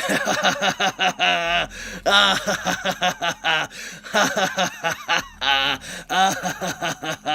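A person laughing and snickering in repeated bursts.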